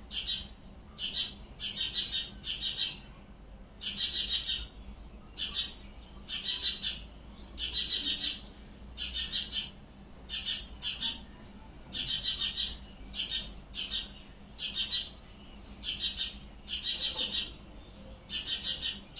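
Small birds chirping in short bursts of rapid high notes, repeated every second or so, often two or three bursts close together.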